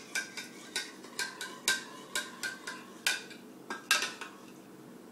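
A spoon clinking against the side of a cup as sugar is stirred into hot milk: quick, ringing taps, two or three a second, thinning to a few louder single knocks about three to four seconds in.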